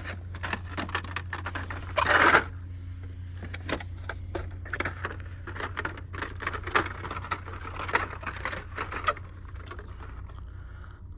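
Carded diecast toy cars clicking and rattling in their plastic blister packs as they are flipped through by hand, with a louder scrape about two seconds in, over a steady low hum.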